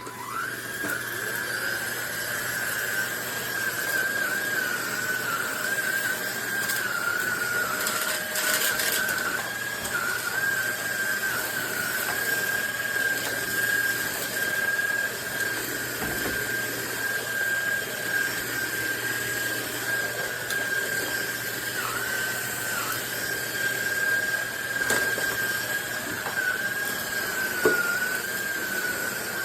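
SMOTURE cordless stick vacuum switched on and running: a steady high motor whine over a rushing airflow hiss. The pitch dips briefly a few times.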